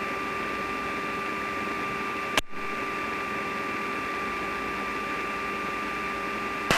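Steady mechanical hum with a constant high whine, like ventilation or running machinery. There is a single sharp click about two and a half seconds in.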